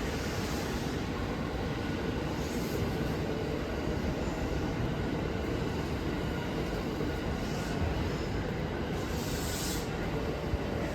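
E217 series electric commuter train running on the track: a steady rumble with brief high hissing squeals from the wheels on the rails a few times.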